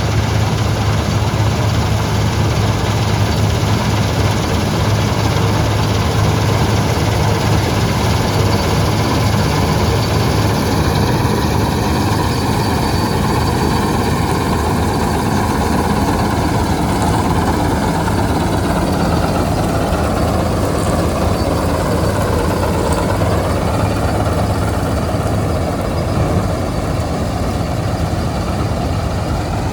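Preet 987 combine harvester running steadily while harvesting wheat: a loud, continuous engine hum with the rush of the machinery over it. About twenty seconds in, the pitch sags and then recovers.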